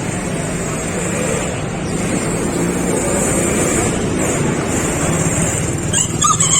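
Steady background noise of a busy outdoor market with traffic-like rumble and a low hum, and a brief higher-pitched sound near the end.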